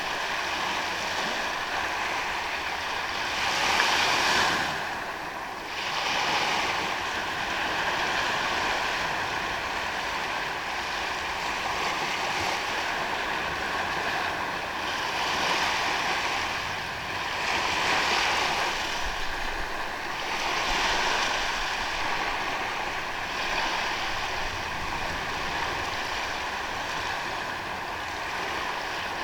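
Ocean waves washing onto a beach in a continuous hiss that swells and ebbs every few seconds, the loudest surge about four seconds in.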